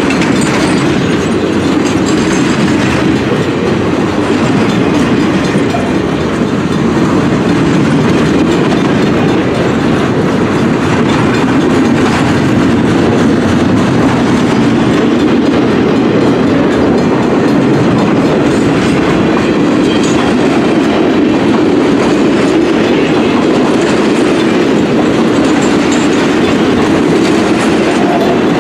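Norfolk Southern maintenance-of-way train rolling past at close range, its flatcars and bunk cars running steadily and loudly on steel wheels over the rails.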